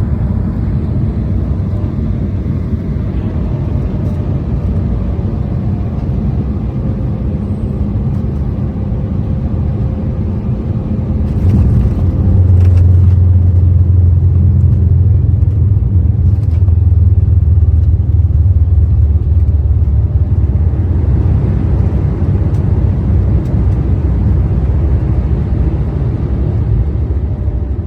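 Airliner cabin noise during landing: a steady rumble of engines and airflow, then about 11 seconds in a few knocks and a sudden rise to a loud low rumble as the jet touches down and runs on reverse thrust, easing off after about 20 seconds as the plane slows.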